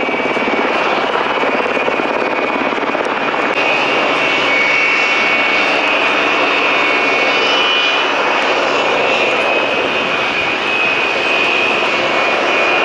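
Aircraft engine running steadily, with a high whine that comes in about three and a half seconds in.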